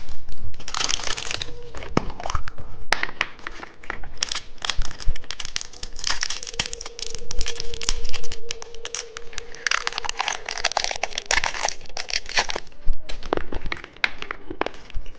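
Crinkling and tearing of a candy wrapper as a surprise candy egg is unwrapped, with a steady run of irregular crackles and clicks.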